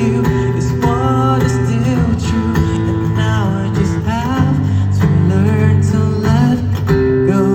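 Live pop-rock band playing an instrumental passage: a guitar melody with bending, gliding notes over sustained bass and drums.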